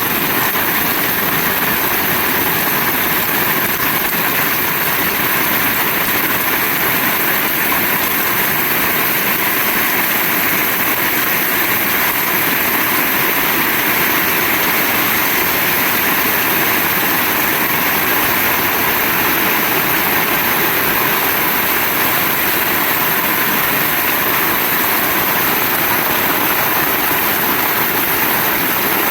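Heavy rain pouring down in a dense, steady hiss that holds at an even level throughout.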